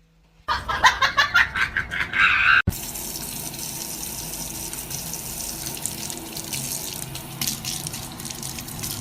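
A loud rapid run of short repeated sounds for about two seconds, then, after a sudden cut, water running steadily as from a tap.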